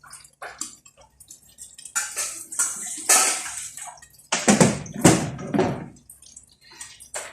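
Water splashing and running in a kitchen sink in uneven bursts, with dishes and utensils knocking, loudest about four to six seconds in.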